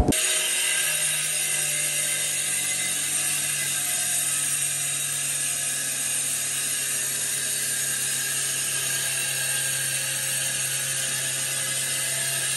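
A small motor running steadily with a whir, a low hum held at one pitch under a dense hiss.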